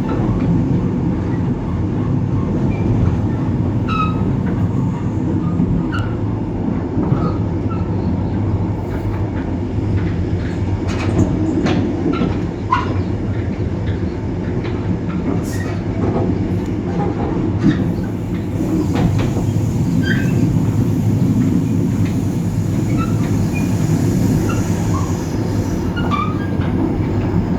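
EMD GT26CW-2 diesel locomotive's two-stroke V16 engine running steadily as the train rolls along, over a low wheel-on-rail rumble with scattered short squeaks and clicks from the wheels.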